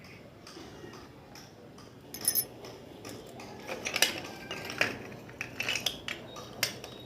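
Fired clay diyas knocking and clinking against each other and a clay pot: a quiet start, then from about two seconds in a series of sharp, irregular clinks.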